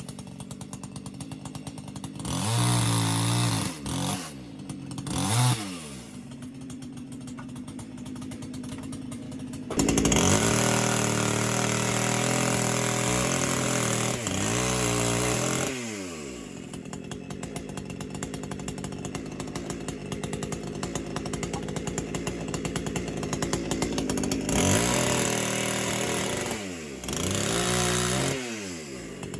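Chainsaw engine idling, throttled up several times: two short revs early on, a long steady run of about six seconds in the middle and another of about three seconds near the end, each winding back down to idle.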